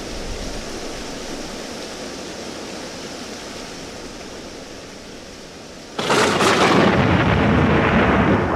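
A steady rushing noise, then about six seconds in a sudden, much louder rush of air that holds.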